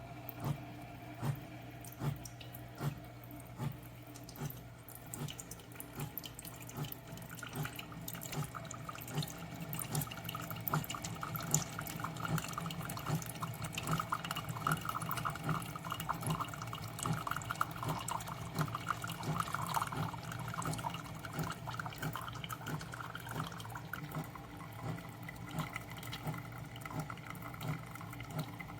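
SiFENE single-serve coffee maker brewing: a steady low hum with a regular pulse a little over once a second, as coffee streams and drips into the cup. The pouring grows louder from about eight seconds in.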